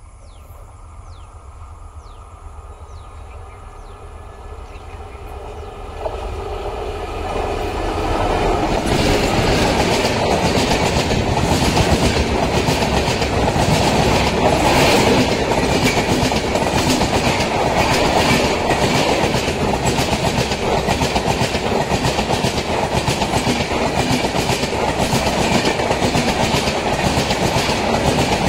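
Passenger train with red-and-grey coaches approaching and then running close past at speed: a rumble that grows louder over the first eight or nine seconds, then a steady loud rush of wheels on rail with a quick, even clickety-clack of the wheels over the rail joints.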